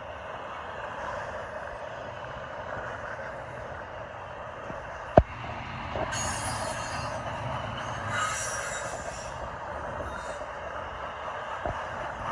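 Union Pacific intermodal freight train rolling away over the rails, with brief high wheel squeals about six and eight seconds in, under steady wind noise on the microphone. A single sharp knock comes about five seconds in.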